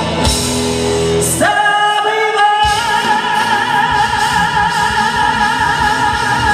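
Live pop song ending: a woman sings one long high note with vibrato over band accompaniment, the band coming in fuller about two and a half seconds in.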